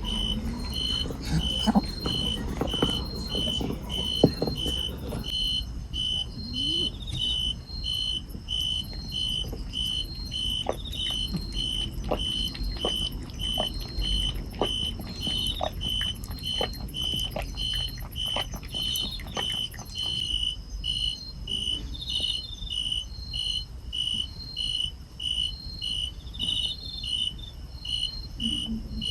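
Night-singing grass insect chirping in an even, high-pitched pulse, a little under two chirps a second, with faint scattered clicks and rustles through the first twenty seconds.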